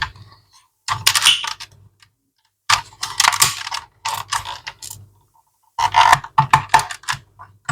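Small plastic clicks and rattles in several short bursts as an instrument cluster's LCD screen is pushed against its retaining clip and pulled free of the cluster housing.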